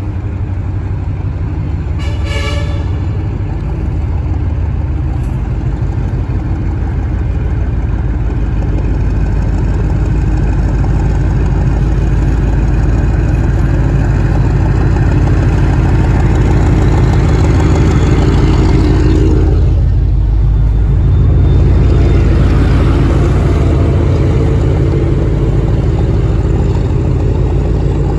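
Train running through the station: a loud, steady, heavy low rumble that grows gradually louder over the first half.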